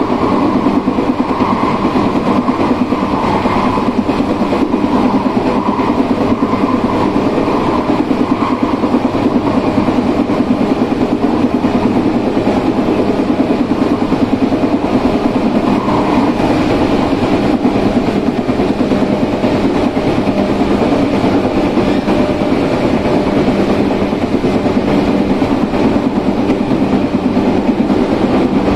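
Izukyu 8000 series electric train with Hitachi traction motors running at speed, heard from inside the car. A steady rumble of wheels on rail blends with a low motor hum, and a higher tone in the mix fades about nine seconds in.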